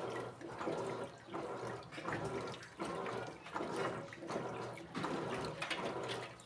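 Electrolux Essential Care LED14 washing machine agitating a wash load: water sloshes in regular strokes, a little under one and a half a second, each with a motor hum.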